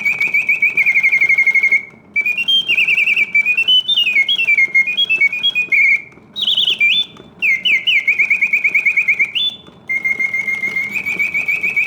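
Reuge singing bird cage automaton singing continuously: a bellows-and-piston whistle producing rapid warbling trills and gliding, rising and falling phrases, broken by brief gaps between phrases. Its full song indicates sound bellows and a mechanism in good working order after servicing.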